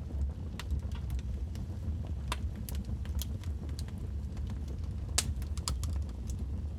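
Logs burning in a fireplace, crackling: scattered sharp pops and snaps over a steady low rumble, with the loudest pop about five seconds in.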